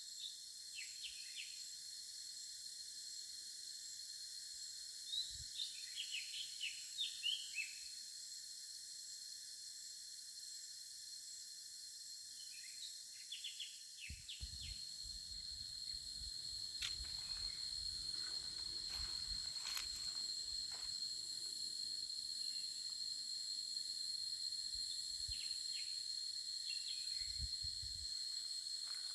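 Steady high-pitched drone of insects, crickets or cicadas, with scattered bird chirps. About halfway through, a low rumble joins in.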